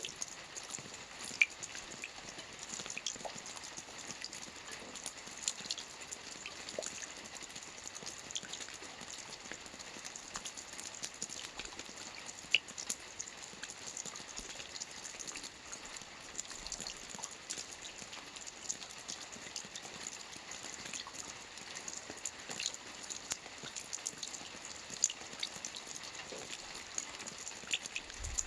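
Rain falling on a lake: a steady hiss with many sharp drip ticks scattered irregularly through it.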